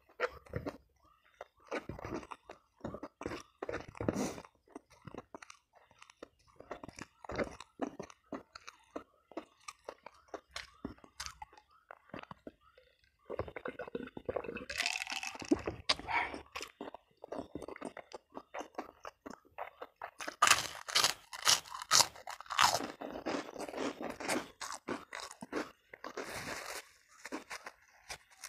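Close-miked chewing and crunching of food in the mouth, with crisp crunchy bites; the loudest, densest run of crunches comes about two-thirds of the way in.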